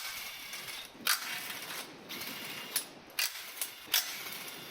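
Ratchet wrench clicking in repeated strokes as a bolt is worked on the engine, with a few sharp metal knocks between the strokes.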